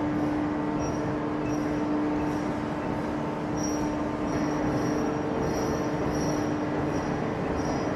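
Heavy forging machinery running in a forge shop: a steady, noisy drone with a constant hum through it.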